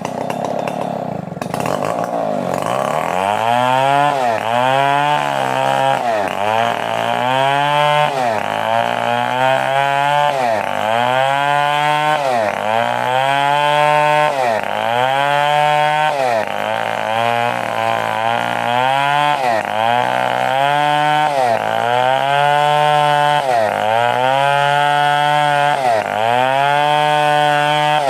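Stihl 070 two-stroke chainsaw cutting, its engine pitch dragging down and climbing back about every two seconds in a steady rhythm as the chain is loaded and eased in the wood.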